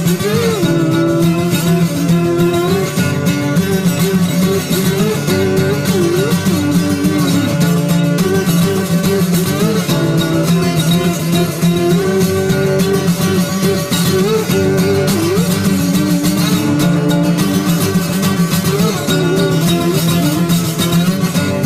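Acoustic guitar played through an instrumental passage of a folk song, continuous and without singing.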